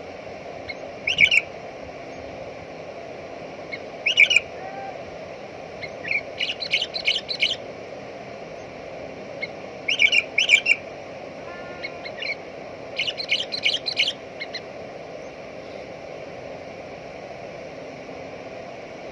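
Sooty-headed bulbul calling near its nest: loud short phrases every few seconds, two of them quick runs of repeated notes, over a steady low background hum.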